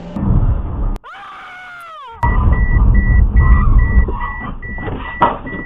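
An electronic warning beep repeats about twice a second over a loud, low rumble of a vehicle moving, with a sharp knock near the end. Before the beeping starts, a short falling wail comes about a second in.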